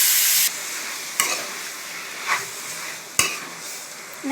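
Chicken pieces sizzling in hot oil in a kadai. The loud hiss drops off about half a second in, and a spoon scrapes the pan three times as the chicken is stirred.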